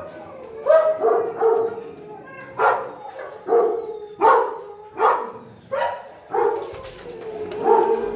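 Large dogs barking in a steady series, about one bark a second.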